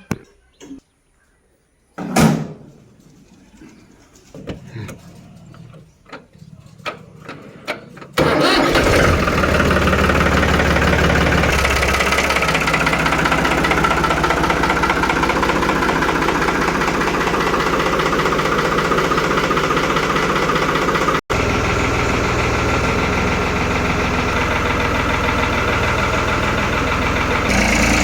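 New Holland tractor's diesel engine comes in suddenly about 8 seconds in and then runs steadily and loudly, with one brief dropout later. Before it there are scattered faint clicks and a single loud thump.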